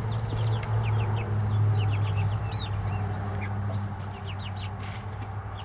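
Four-week-old chicks peeping and chirping, many short high calls overlapping, over a steady low hum.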